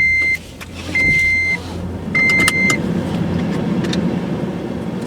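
A car's electronic cabin beeps: a steady high tone sounding three times at about one-second intervals, with a few clicks under the last beep. The car then pulls away and engine and road noise rise and hold steady.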